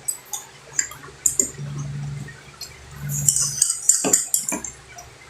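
Eating sounds: forks and spoons clinking against plates, with short wet mouth and food noises scattered through.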